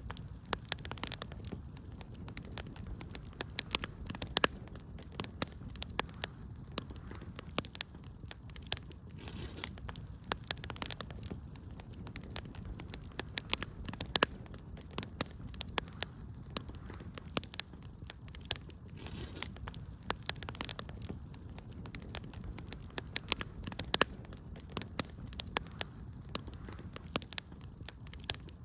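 Wood fire crackling steadily, with frequent irregular sharp pops and snaps over a low, soft rush of burning.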